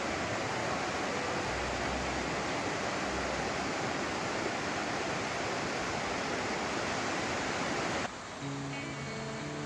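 Rushing water of a small mountain stream, a steady hiss that cuts off abruptly about eight seconds in, when acoustic guitar music starts.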